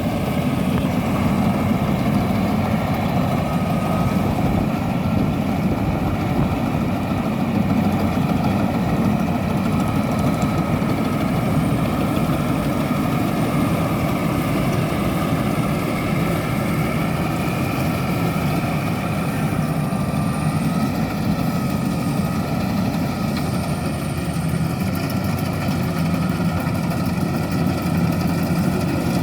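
Rice combine harvester's engine running steadily with a constant low rumble and a hum, no change in speed.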